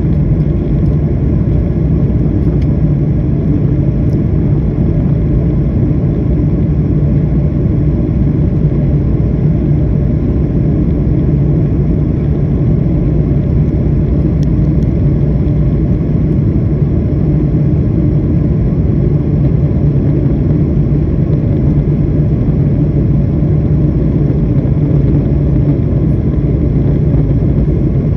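Turkish Airlines jet airliner on takeoff: a loud, steady low rumble of engines and airframe, with no change in pitch.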